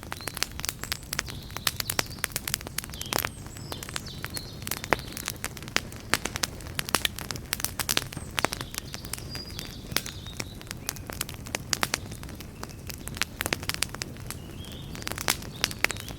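Wood campfire crackling, with frequent sharp pops and snaps over a low steady rumble of burning. Faint short bird chirps come through in the background now and then.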